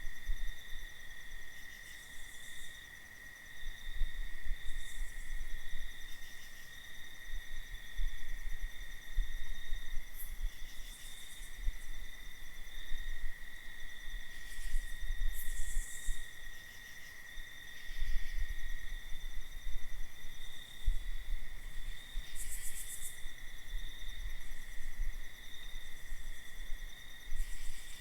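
Night insect chorus: a steady, unbroken cricket trill on one pitch, with short high buzzy insect calls breaking in now and then. Under it, a low rumble swells and fades every second or two.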